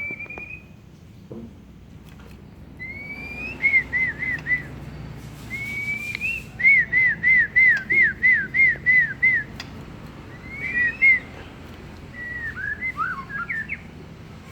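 A person whistling clear notes: rising glides, then runs of short repeated arched notes at about four a second, and a looser falling phrase near the end.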